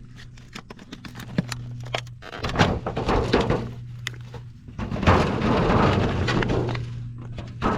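Hands handling gardening materials: scattered knocks and thunks, with a stretch of rustling about five seconds in, over a steady low hum.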